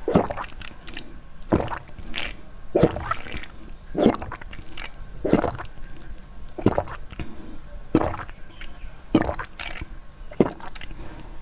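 Peach jelly being eaten: squishy, wet bites and chews, one about every second and a bit.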